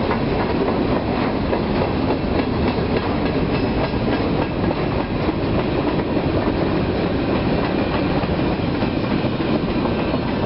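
Freight cars rolling past at close range: a steady rumble and clatter of steel wheels on the rails. The last car goes by near the end.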